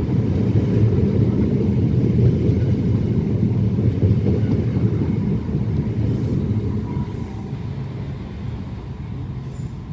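Class 465 Networker electric multiple unit running at the platform, a loud low rumble of motors and wheels that fades over the last few seconds.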